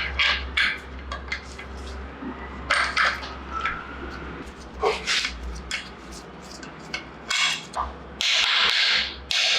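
Metal parts and tools clinking and knocking as they are handled in a workshop, with about a second of hissing or scraping near the end.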